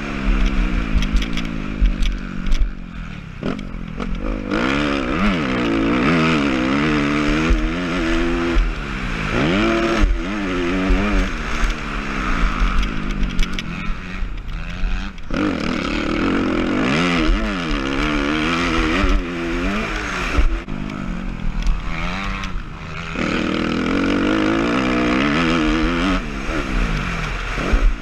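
Suzuki RM-Z250 four-stroke single-cylinder motocross bike engine under hard riding, its pitch climbing and dropping again and again as the throttle is opened and shut through the gears. Wind rumble and rattles are on the microphone throughout.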